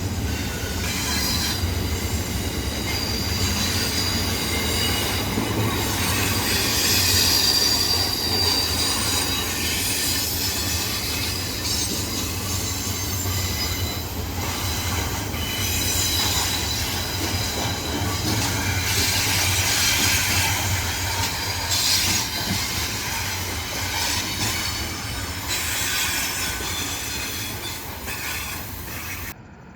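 Railroad cars rolling past with steel wheels squealing on the curving grade: a steady rumble under shifting high-pitched squeals. It cuts off abruptly just before the end.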